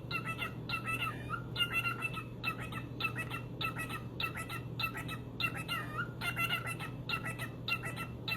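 A pet parrot calling over and over in short, even notes, roughly two a second, over a steady low hum.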